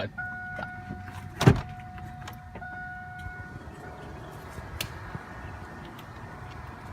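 A 1996 Chevy Cavalier's electronic warning tone sounds steadily for about four seconds as the ignition is tried, with a single sharp click about a second and a half in. The engine does not crank, only a faint hiss follows: the car is not starting.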